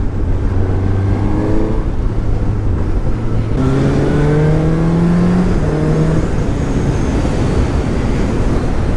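Suzuki GSX-S750's inline four-cylinder engine under way on the road: it runs at a steady low note, then its pitch jumps up about three and a half seconds in and climbs as the bike accelerates.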